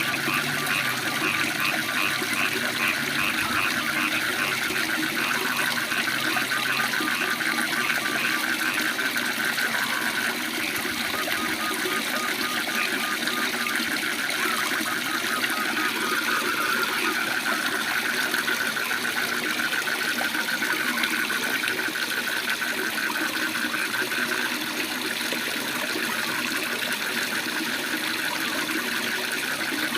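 Waterfall running steadily, with trains of fast pulsing frog calls over it, busiest in the first half.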